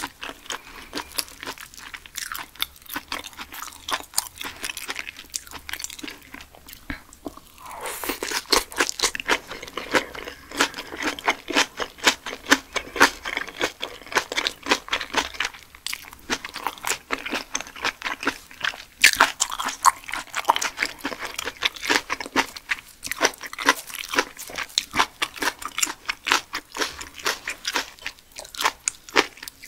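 Close-miked chewing of raw grey mullet sashimi wrapped in seasoned greens: a dense, continuous run of wet crunching mouth sounds. It gets louder from about eight seconds in.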